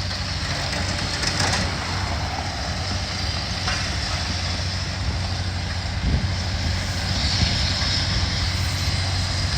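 Heavy diesel engine running steadily at a low, even hum, with a couple of faint knocks.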